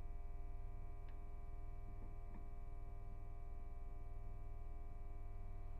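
Metal lathe running with a steady, unchanging hum of many tones, low and high together, with a couple of faint ticks about a second and two and a half seconds in.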